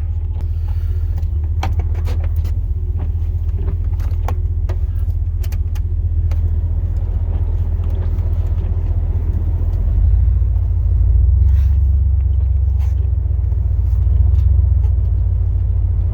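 The 8.1-litre big-block V8 of a 2002 Chevrolet Silverado plow truck running, heard from inside the cab as a steady low rumble that grows louder about ten seconds in. A few light clicks and knocks in the first few seconds.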